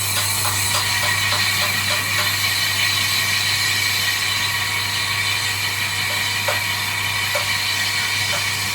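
Lathe running steadily while turning a brake drum: a constant machine hum under a steady high hiss from the cut, with light regular ticking in the first second.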